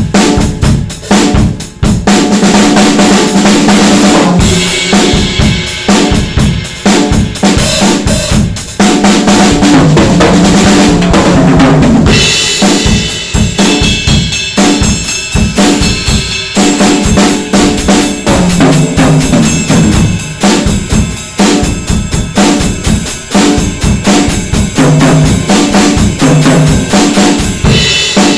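Drum kit with Soultone NOA cymbals being played in a continuous groove: kick, snare and toms hit rapidly throughout. Heavier cymbal wash comes in about four seconds in and again about twelve seconds in.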